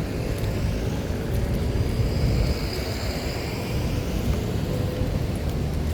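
Outdoor street ambience: a low, steady rumble of passing road traffic, with a faint high whine swelling and fading in the middle.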